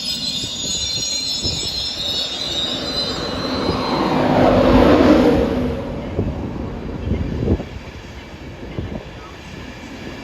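A train moving through a station: a high-pitched metallic squeal of steel wheels on the rails over the first few seconds, then a loud rush of noise that swells about halfway and fades as it goes by, with a single knock shortly after.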